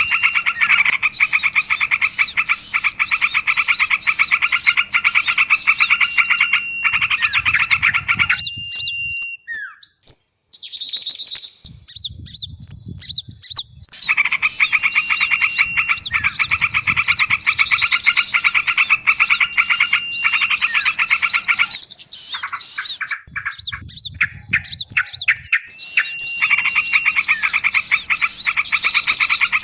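A bird-luring recording of small songbirds, many calling at once in a fast, agitated chatter of repeated chirps and trills, with low rapid pulsing underneath. The chorus breaks off twice for a few seconds, about eight seconds in and again past twenty seconds, before resuming.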